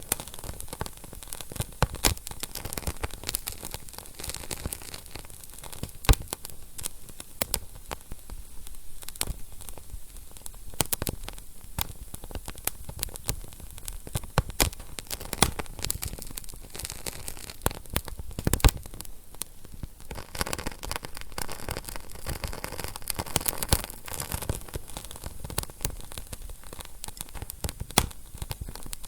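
Wood fire crackling in a fireplace: a steady hiss of burning with many sharp, irregular pops and snaps, the loudest about six seconds in and again near the end of the middle third.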